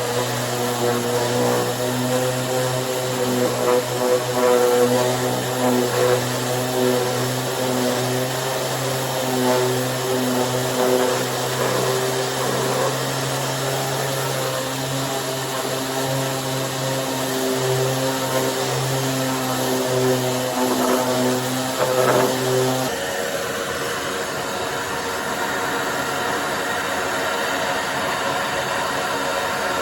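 Corded random orbital sander running with a steady motor hum. About three-quarters of the way through, the sound changes to a smoother, hissier whir.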